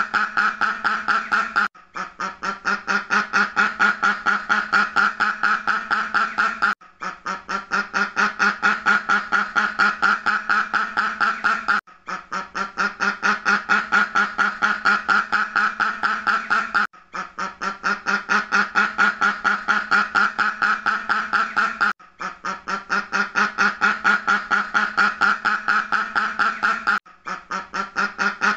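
Duck quacking in a fast, continuous run of quacks. The same stretch of about five seconds repeats in a loop, with a brief break between repeats.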